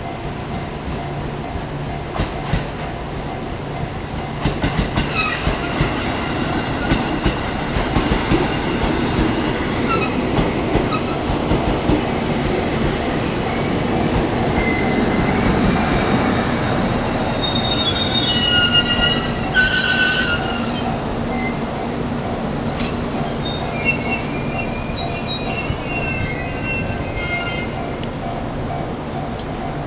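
Electric train rolling slowly over the rails with rhythmic wheel clicks, then shrill squeals from the wheels and brakes as it slows, over a steady low hum.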